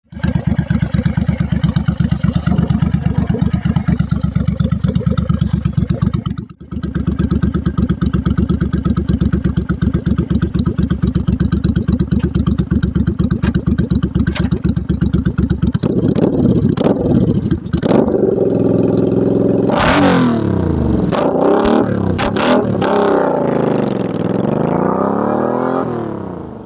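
2002 Suzuki VL800's V-twin running through a Vance & Hines Straight Shot exhaust with aftermarket silencers. It idles steadily, with a brief dip about six seconds in, then is revved up and down several times over the last ten seconds before falling away near the end.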